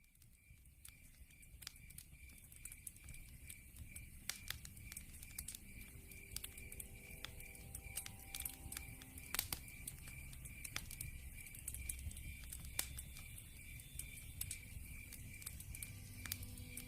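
Wood fire crackling, with frequent sharp pops over a low rumble, while a cricket chirps steadily in a regular pulse, about three chirps a second.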